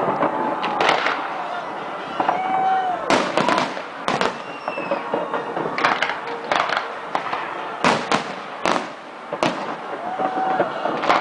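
Fireworks display: a dozen or so sharp bangs at irregular intervals over a continuous crackle of bursting shells.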